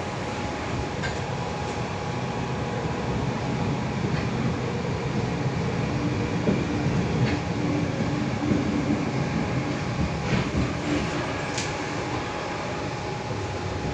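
Inside a Tangara electric train carriage running at speed: a continuous rumble of wheels on track with a few scattered clicks and a steady hum. A second, lower tone comes in for several seconds through the middle, and the rumble grows slightly louder there.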